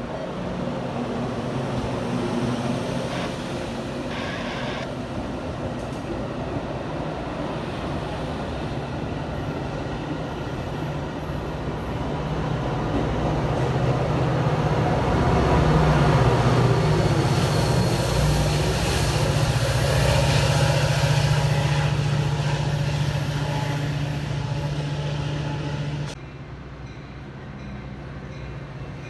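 A diesel-hauled train passing at track side, the locomotive's engine drone and the rumble of wheels on rails building to a peak and easing off. The sound drops suddenly near the end.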